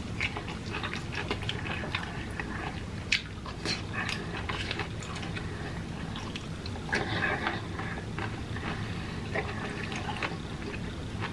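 Close-up wet chewing and lip-smacking as stir-fried broccoli and vegetables in sauce are eaten, with irregular small clicks and smacks, busier about seven seconds in.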